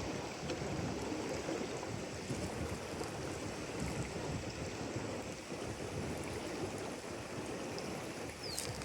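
Steady rush of running water, with one short, high, falling chirp near the end.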